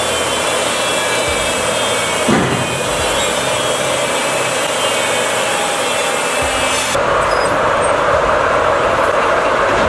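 Log debarking machine stripping bark from a log: a steady rasping, grinding noise that changes abruptly to a different, steadier machine noise about seven seconds in.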